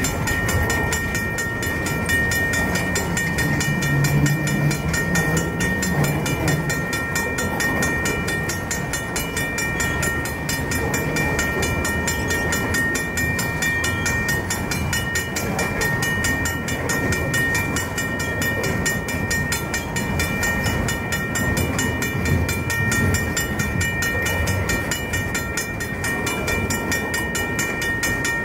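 Freight train cars rolling past with a low rumble of wheels on rail and a steady, high-pitched squeal of brakes held over it.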